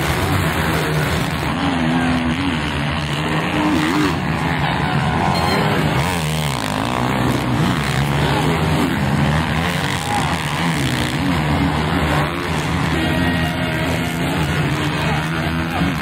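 Several motocross motorcycle engines revving, their pitch rising and falling over and over as the bikes accelerate and back off.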